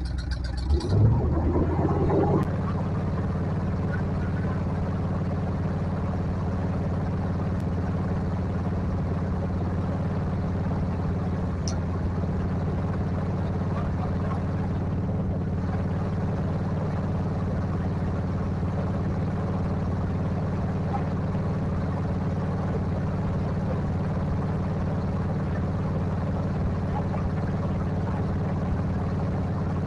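Off-road vehicle engine running at a steady, unchanging speed, louder and more uneven for the first couple of seconds before settling into an even drone.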